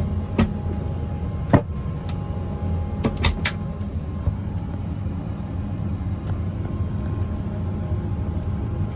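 Steady low hum of an airliner cabin with a faint steady whine, broken by half a dozen sharp clicks and knocks in the first four seconds, such as galley latches or compartment doors being worked.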